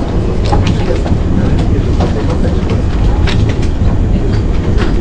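Passenger train running at speed, heard from inside the carriage: a steady low rumble from the wheels and running gear, with scattered sharp clicks.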